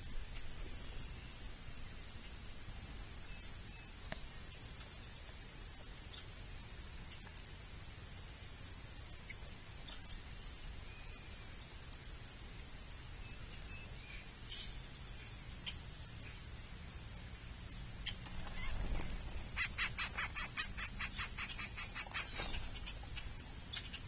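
Wild birds calling outdoors: scattered short, high chirps, then near the end a loud rapid series of repeated notes, about five a second, lasting around three seconds.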